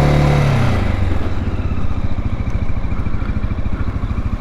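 Dual-sport motorcycle engine running under the rider. A strong, even engine tone drops away about a second in, and the engine settles into a lower, steady pulsing run.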